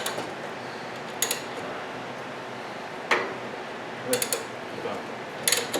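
Metal hand tools clicking and clinking in short bursts, four times, as bolts are worked on.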